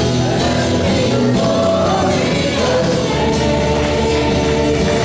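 Congregational gospel worship song: a worship team singing together in held, sustained notes over steady instrumental accompaniment.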